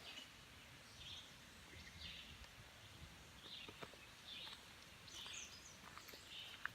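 Faint woodland sound: a bird calling over and over, about once a second, with light clicks and soft steps on the trail.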